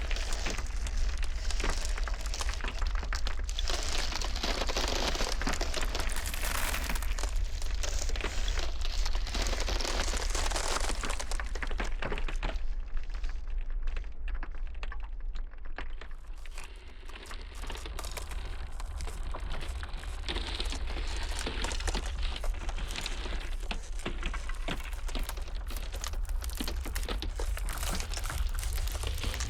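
Iceberg ice cracking and crackling in a dense run of small snaps, over a steady low rumble of blizzard wind. The crackling thins out briefly about halfway through, then builds back.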